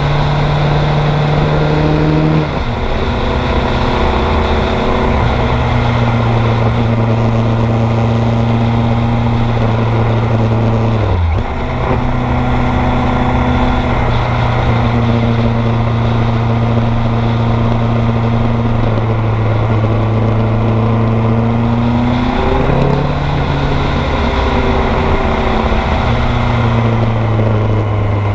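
Kawasaki GPZ900R motorcycle's liquid-cooled inline-four engine running under steady throttle, with brief drops in engine pitch about two, eleven and twenty-two seconds in.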